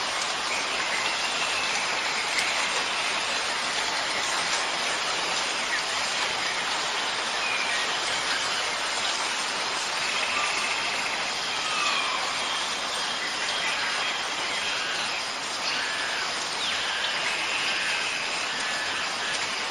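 Steady rain falling, with occasional short bird calls faintly over it.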